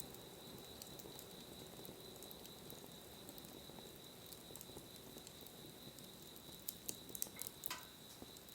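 Wood fire burning quietly: a soft hiss with sparse crackles and pops, a few louder pops close together about seven seconds in. A faint steady high-pitched tone runs underneath.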